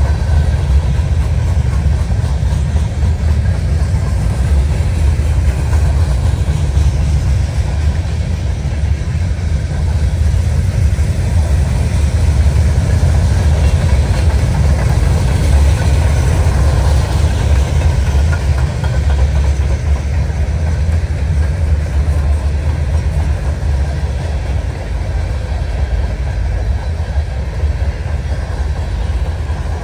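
A passing train rolling by, a continuous heavy rumble that eases off near the end.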